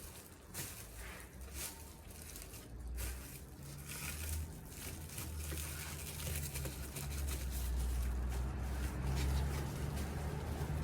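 Rustling and light clicks of the air-conditioner outdoor unit cover and its parts being handled and fitted, over a low rumble that grows louder from about four seconds in.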